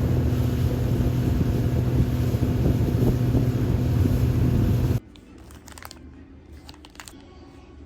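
Engine running steadily with a low hum under a rushing noise, which cuts off abruptly about five seconds in; a few light clicks follow at a much lower level.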